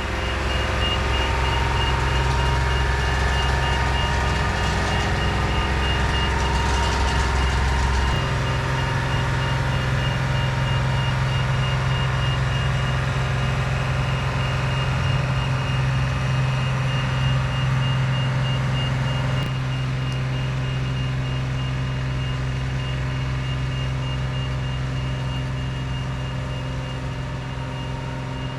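A reversing alarm beeping steadily and evenly over a running engine. The engine's low note changes about eight seconds in and eases off a little after about twenty seconds.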